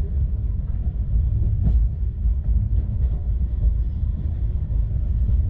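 Mahananda Express passenger train running along the track, a steady low rumble of the coach heard from inside.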